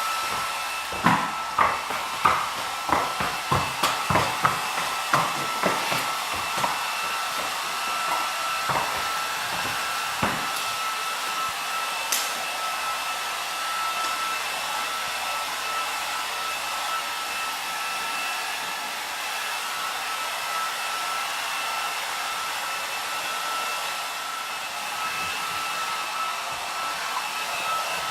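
Electric hair dryer running steadily, a blowing hiss with a constant high whine from its motor. During the first third, a run of sharp knocks comes at about two a second, then stops.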